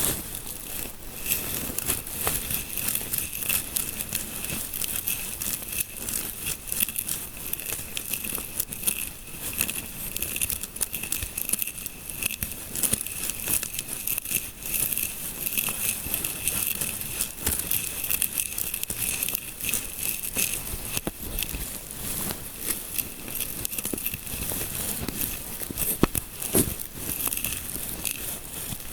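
Fingers scratching and rubbing through hair close to the microphone: a dense, continuous crinkly scratching with many small crackles. A faint steady high tone runs underneath.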